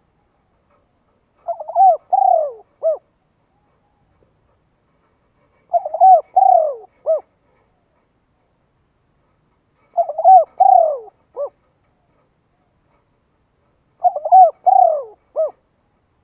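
A bird calling: a short phrase of several gliding, cooing notes, repeated four times at about four-second intervals.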